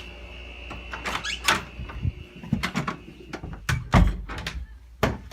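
The steady hum and high whine of a running window air conditioner, fading after about a second. Then a string of knocks, clicks and rattles as a door is opened and someone goes through it, with a heavy thump about four seconds in.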